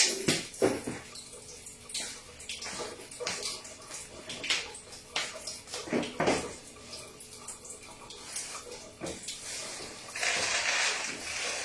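Water splashing in a bowl in irregular splashes as food is washed by hand. About ten seconds in, water pours steadily until the end.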